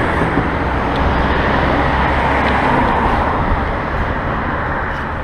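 Road traffic: motor vehicles running past close by with steady engine and tyre noise, easing off a little near the end.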